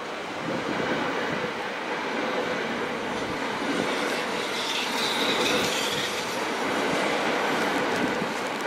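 NS Sprinter Lighttrain electric train rolling past along the platform: a steady rumble of wheels on rail with a low hum, and a brief high squeal about halfway through.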